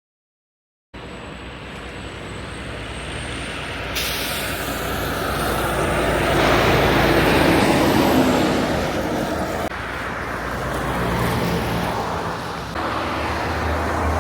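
Heavy trucks driving by on a road, engine and tyre noise swelling and easing. The sound starts suddenly about a second in and changes abruptly several times.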